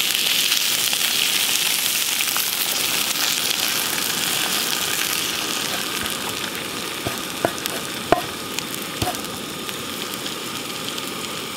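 Diced potatoes with onions and peppers sizzling steadily in a skillet over a propane camp stove, with a few sharp pops in the second half.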